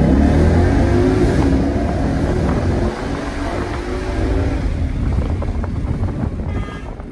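Ford Mustang GT's 5.0-litre V8 accelerating hard, heard from inside the cabin. The engine note climbs, dips briefly about three seconds in, then climbs again before easing off near the end.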